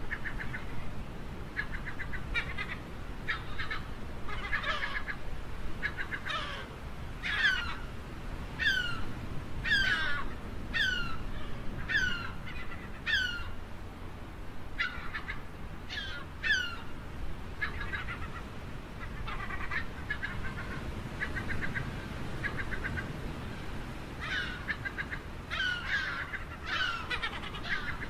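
Gulls calling: stretches of quick chattering calls, and in the middle a run of short falling cries about one a second, over a steady low background noise.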